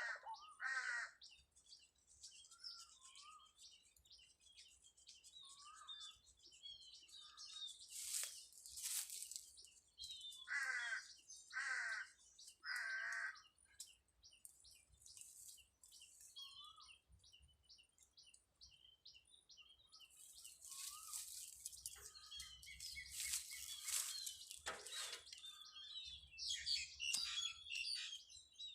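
Birds calling: a run of three loud, harsh calls about a third of the way in, over many short high chirps that go on throughout. Brief noisy rustling bursts come in twice, once before the harsh calls and again in a longer stretch late on.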